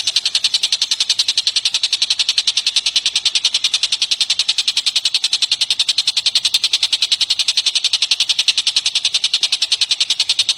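Bird-song master recording: a high, rapid, unbroken trill of about ten notes a second, steady in pitch and level.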